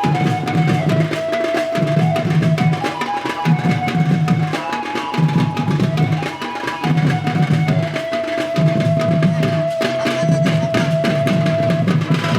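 Adivasi folk dance music: a low drum pattern repeating in groups about every second and a half to two seconds, under a melody of long held notes that step up and down in pitch.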